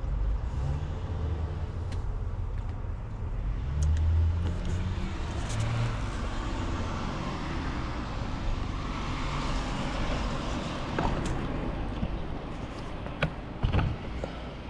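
A road vehicle passing by over a steady low rumble, swelling and fading about two-thirds of the way through, with a few sharp clicks near the end.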